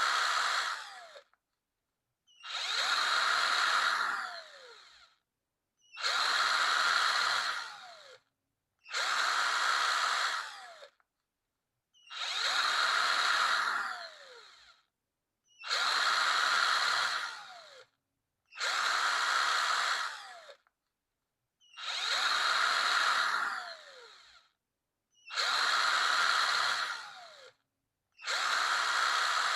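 Power drill run in short bursts of about two seconds, about nine times, with a second or so of silence between. Each burst ends with the motor's whine falling as it winds down after the trigger is released.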